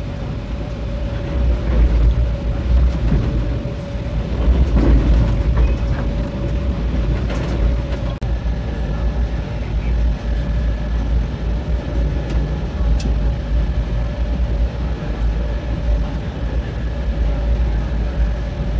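Running noise of a moving passenger train: a steady low rumble of wheels on rails with a constant hum through it.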